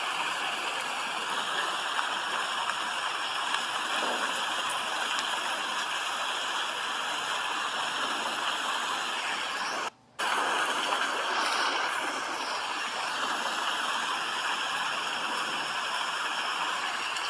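Steady rain, an even hiss of falling water that drops out for a split second about ten seconds in.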